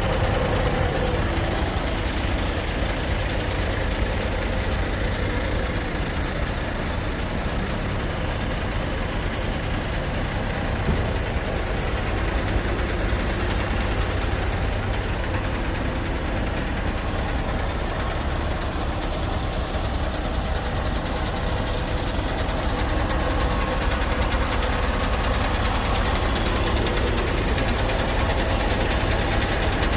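Scania R580 truck's 16-litre V8 diesel engine idling steadily.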